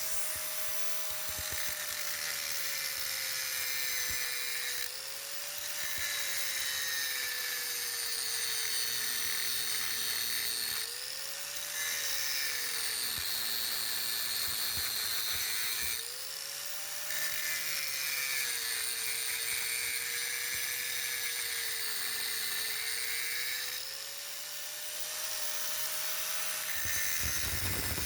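A high-speed power grinder running continuously while grinding metal. Its whine sags in pitch under load and briefly rises each time the tool is eased off, about every five seconds.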